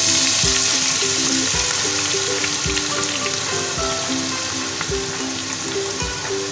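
Grated garlic sizzling in hot refined ghee with browned cumin seeds in a kadhai: a loud, steady frying hiss that is strongest at first and eases off slowly as the garlic begins to fry.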